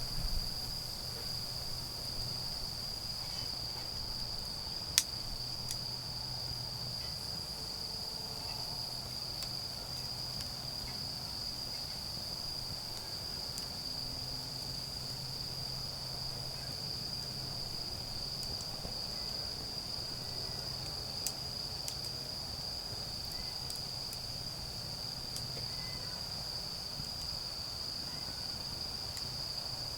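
Autumn crickets singing in a continuous, unbroken high trill, with a couple of sharp single cracks from the burning wood fire, the loudest about five seconds in.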